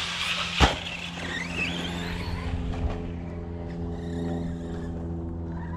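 Brushless electric motor of a radio-controlled monster truck whining as the throttle is worked, its pitch sliding up and down, with one loud thump about half a second in. A steady low hum runs underneath.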